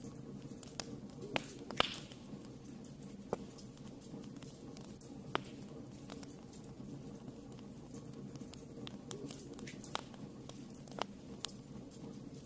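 Wood fire burning in a fireplace: a steady low rush of flame with scattered sharp crackles and pops, the loudest about two seconds in.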